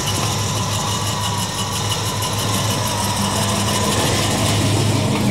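1977 Pontiac Trans Am's V8 engine idling steadily.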